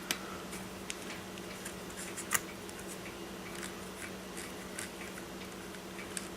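Scattered light clicks and taps of a small hand tool and screw being worked into an RC car's motor mount, the sharpest tap about two and a half seconds in, over a steady low hum.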